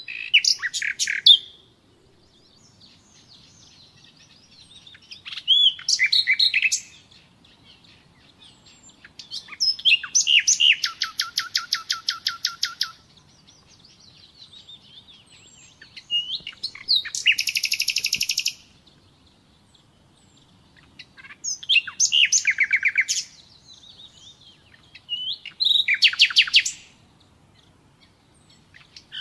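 Common nightingale singing: a series of separate song phrases a few seconds apart. Many are fast runs of repeated notes, the longest lasting about three seconds, with soft notes between the phrases.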